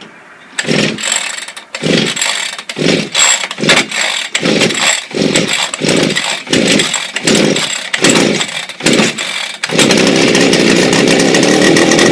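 A small two-stroke chainsaw engine on a homemade go-kart starting up: it fires in short, loud bursts about two a second, then settles into steady running about ten seconds in.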